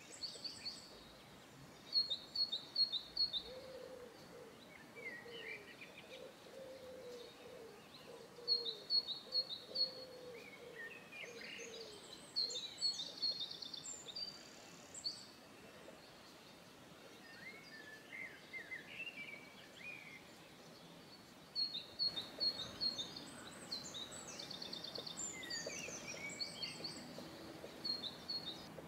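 Birds chirping outdoors in short bursts of quick high notes that come back every few seconds, over a faint steady background noise.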